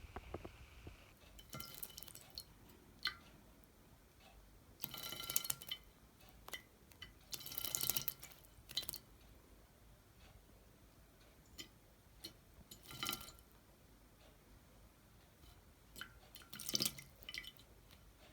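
Small pet bird bathing in a shallow dish, splashing water in several short bursts with quiet gaps between.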